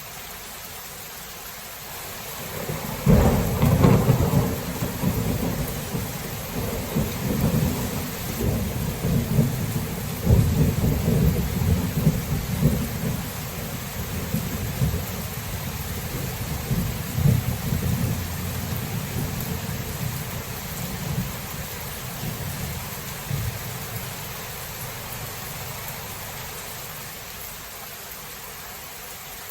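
Steady rain falling, with a clap of thunder about three seconds in that rolls on in repeated surges, swells again around ten seconds, and gradually dies away over the following fifteen seconds.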